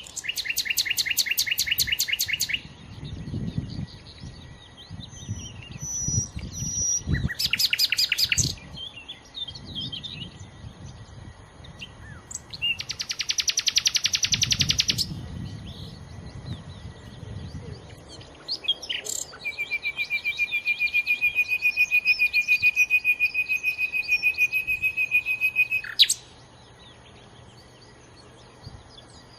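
Nightingale singing in separate phrases of rapid repeated notes, ending with a long fast trill held at one pitch for several seconds that stops abruptly. A low background rumble runs underneath.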